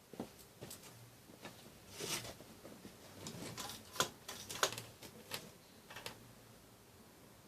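Scattered light clicks and knocks at irregular intervals, a few louder near the middle, over faint room noise.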